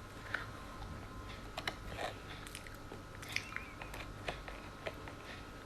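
A person chewing food close to the microphone: scattered crunches and mouth clicks at an irregular pace.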